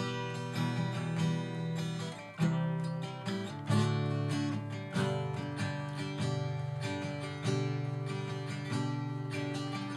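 Acoustic guitar strummed, playing an instrumental passage between sung lines of a song.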